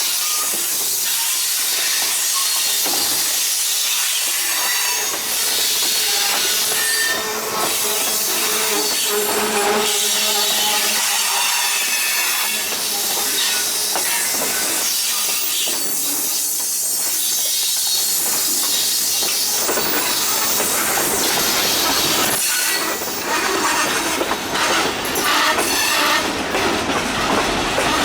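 Freight train cars rolling past on the rails: a steady high hiss with faint squealing tones from the wheels. Near the end, a heavier, uneven rumble and clatter joins in.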